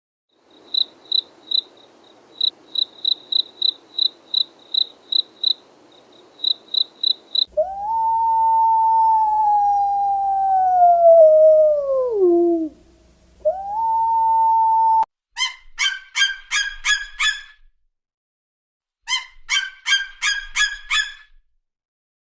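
Animal calls from separate clips in turn: a run of short, high chirps repeating two or three times a second, then a long call that slides slowly down in pitch, stops and comes back high, then bursts of quick, rough, rapidly pulsed calls.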